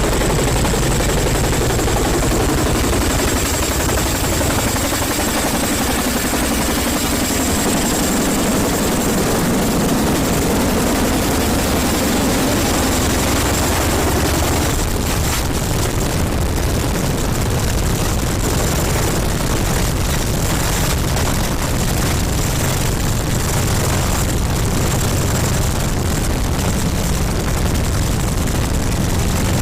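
Military helicopter running close by: steady rotor and turbine engine noise with a high thin whine. From about halfway through the noise turns rougher, with rapid pulsing.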